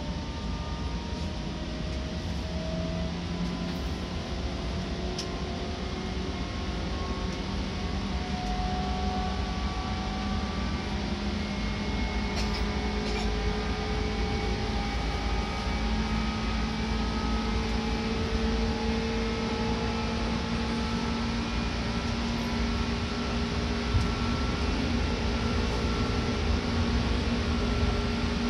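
Seibu Red Arrow limited express running, heard from inside the passenger car: a steady rumble of wheels and running noise. Faint motor tones climb slowly in pitch and the noise grows a little louder as the train gathers speed. There is a single brief click near the end.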